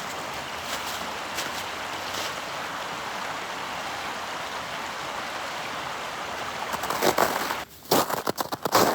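Steady rushing of running water, like a mountain stream. About seven seconds in it gives way to louder, irregular rustling and crackling.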